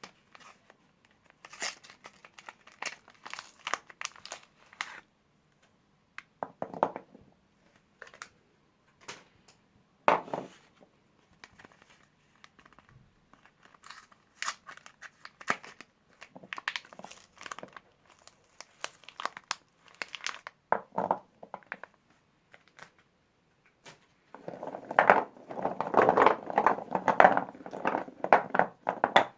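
Soap bar wrappers being torn open and crinkled by hand: scattered bursts of crinkling and tearing, becoming continuous and louder for the last few seconds.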